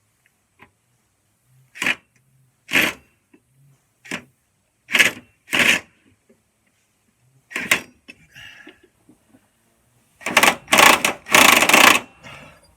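Irregular clanks and rattles of metal tools and mower-deck parts being handled: six short sharp knocks spread over the first eight seconds, then a denser clatter of about two seconds near the end.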